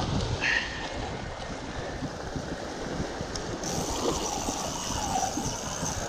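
Wind rushing across the microphone over lapping water, with a brief high squeak about half a second in.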